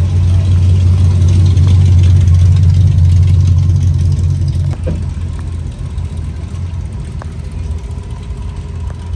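Car engine running at a steady low idle, a deep rumble that eases off about halfway through.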